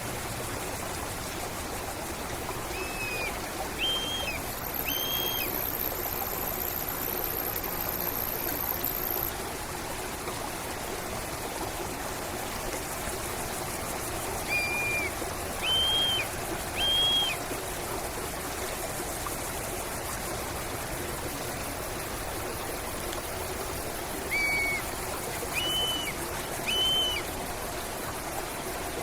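Steady flowing stream water with a bird calling over it: three times, a group of three short arched notes, one lower then two higher.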